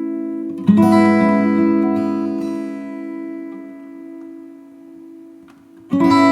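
Background music: acoustic guitar chords strummed and left to ring. One chord is struck about a second in and slowly fades away before the next is strummed near the end.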